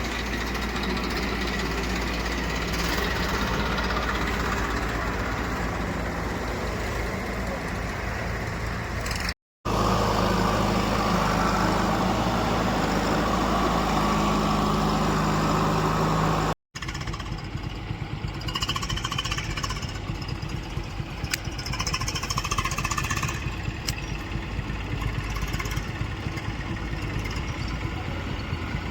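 Heavy diesel engines of a backhoe loader and tractors running steadily. In a louder middle stretch an engine is revved, its pitch rising and falling. The sound breaks off abruptly twice.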